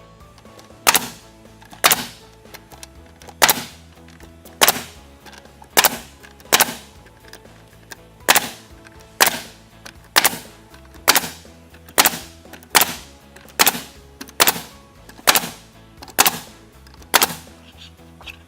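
Nail gun driving nails into engineered-wood vertical siding panels, one sharp shot about every second, some eighteen in a steady run down the panel. Background music plays underneath.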